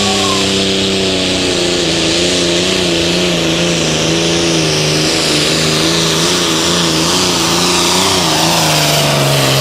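Pro Farm class turbocharged diesel pulling tractor running flat out under load, its engine pitch falling slowly as the sled bogs it down, with a high turbo whine over it.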